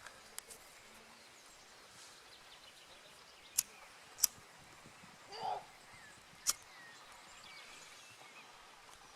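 Dry wood snapping: three sharp cracks a second or two apart, with a short rustling scrape between the last two and faint small clicks throughout.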